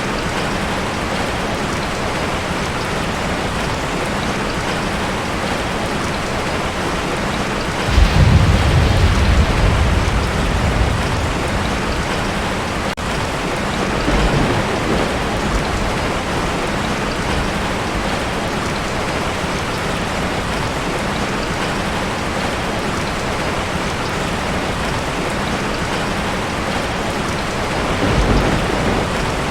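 Heavy rain drumming steadily on a tin roof, with a clap of thunder rumbling in suddenly about a quarter of the way through and fading over several seconds, and weaker rumbles later and near the end.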